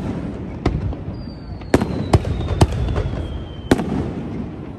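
Aerial fireworks going off: about five sharp bangs over a continuous rumble of bursts. A thin whistle slowly falls in pitch from about a second in and ends with a bang near the end.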